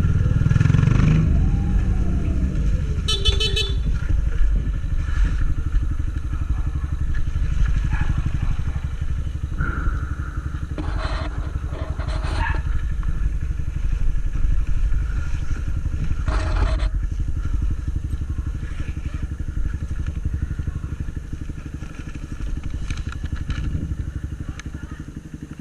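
Single-cylinder engine of a Honda CG 160 Titan motorcycle running steadily under way, with a brief horn-like beep about three seconds in.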